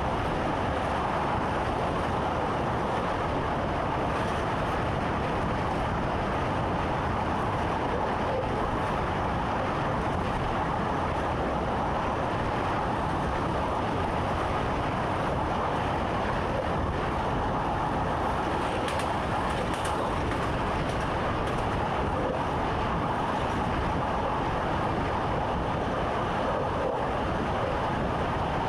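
Steady running noise of a train heard from inside the driver's cab: an even rumble of wheels on track and the cab's own hum, with no sudden events.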